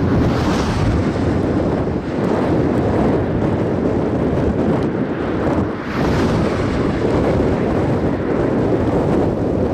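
Strong gusty blizzard wind buffeting the microphone: a loud, rumbling roar that surges and eases, with brief lulls about two and six seconds in.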